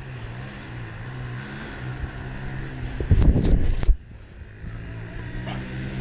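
Enduro dirt bike engine running at a steady idle, with a louder rushing burst about three seconds in that cuts off abruptly.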